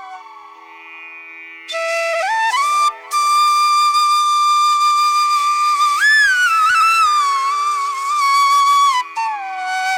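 Background instrumental flute music: one melody with long held notes and sliding ornaments over a steady drone. It is soft for the first couple of seconds before the melody comes in fully.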